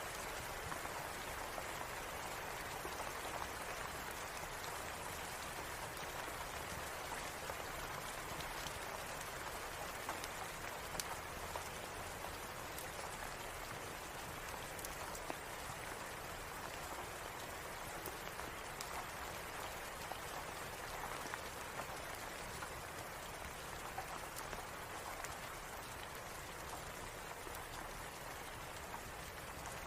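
Steady rain falling, an even hiss of drops, with scattered small sharp clicks and ticks.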